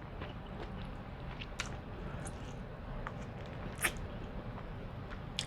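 Close-miked eating sounds: soft wet chewing with scattered mouth clicks and lip smacks, one sharper smack about four seconds in.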